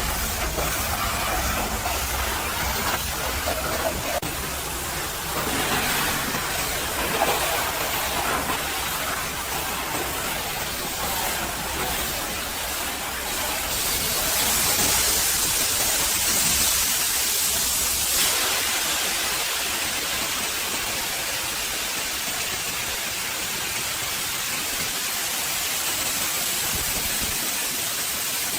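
High-pressure washer spray hissing against a truck as mud and ice are blasted off, with a low rumble underneath that stops about 18 seconds in.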